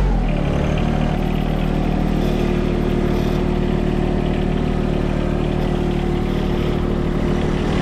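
Three-cylinder diesel engine of a John Deere 1023E compact tractor running under way; its revs drop right at the start, then hold steady.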